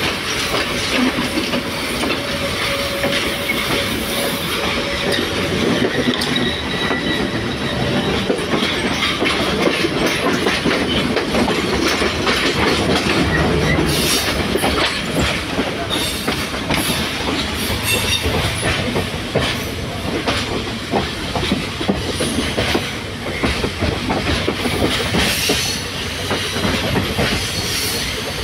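Passenger train running along the line, heard from an open carriage doorway: a steady rumble with the clickety-clack of wheels over rail joints. For roughly the first half a blue S-class diesel multiple unit passes close alongside on the next track.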